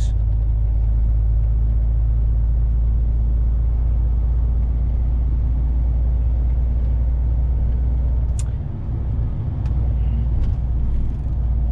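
Truck's diesel engine and road noise heard from inside the cab while driving: a steady low rumble that dips briefly about nine seconds in, with a few light clicks near the end.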